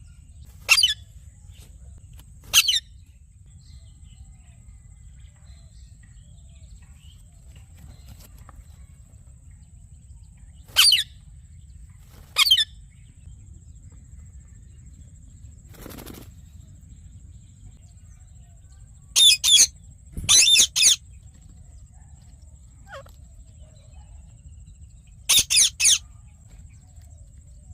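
Yellow ringneck parakeet giving short, loud, shrill screeches, singly at first and later in quick runs of two or three, with long pauses between. A faint steady high whine and low background hum run underneath.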